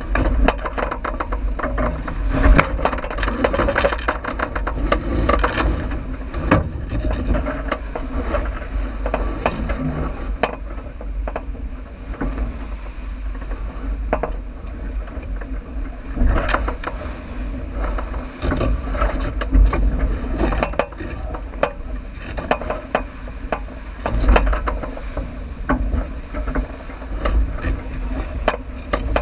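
Sounds aboard a J80 sailboat under way downwind: a steady low rumble of wind and water with many irregular knocks and clicks.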